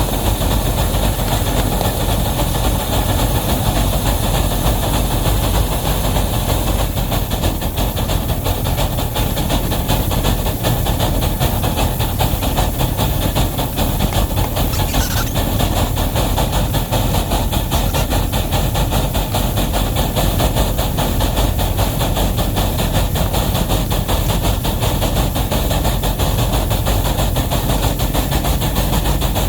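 Wabash No. 713 and its heavy train running, a loud steady rumble with hiss and a faint clickety-clack of wheels on rail joints.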